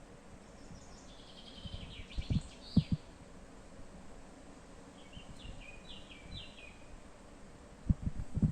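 A small bird singing two short phrases of quick, high chirping notes, about a second in and again around five seconds in, over steady outdoor background noise. Several sharp low thumps break in, the loudest near the end.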